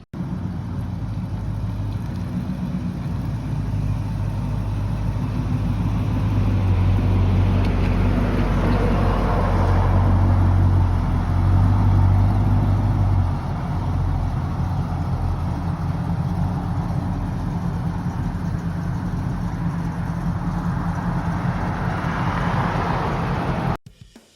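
Car engine running with a deep, steady low rumble, building slowly and then dropping back slightly about thirteen seconds in.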